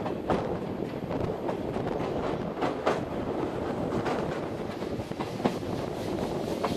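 Steam-hauled passenger train running, heard from its coach: a steady rumble of wheels on the track broken by irregular sharp clicks as the wheels cross rail joints.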